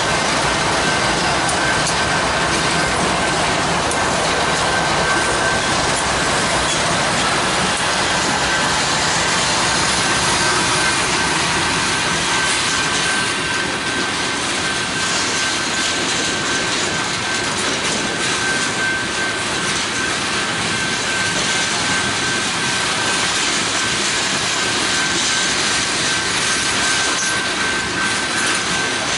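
A lashup of GE ES44 and Dash 9 diesel-electric locomotives passes at close range with its engines running, and the low sound fades about twelve seconds in. Covered hopper cars then roll by with steady wheel-on-rail noise. A steady high tone runs through most of it.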